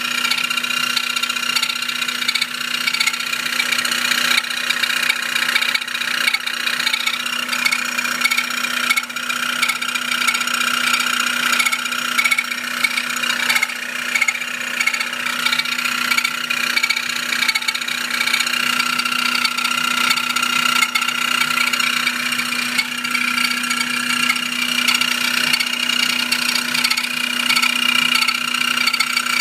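1995 Mazda Miata's 1.8-litre four-cylinder engine running steadily with a continuous high-pitched squeal from the accessory drive, which the owner believes comes from a bad power steering pump pulley.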